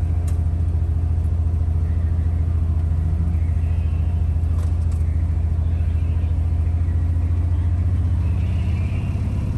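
Volkswagen Type 3 notchback's air-cooled flat-four engine running steadily as the car rolls along, heard from inside the cabin as a loud, even low drone.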